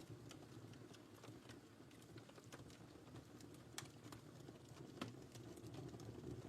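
Wood fire crackling softly: a low steady rumble of flame with scattered sharp pops and ticks, two of them louder past the middle.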